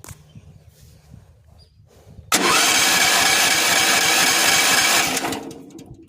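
Sawmill engine cranked over by its electric starter for about three seconds without catching. The cranking starts suddenly and then tails off. The engine is failing to start.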